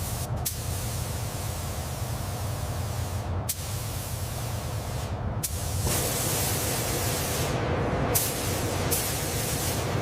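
A hissing spray, cut off and restarted several times, over a steady low hum.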